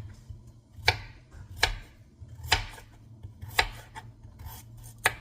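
Knife chopping on a cutting board: five separate sharp strokes, roughly a second apart.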